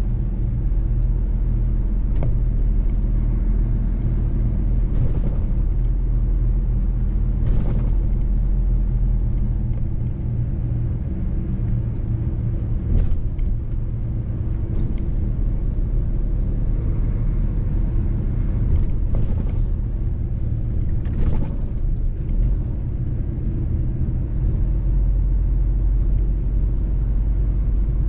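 Mercedes-Benz truck's diesel engine running steadily at an even pitch while driving, with a low rumble and a few short knocks scattered through.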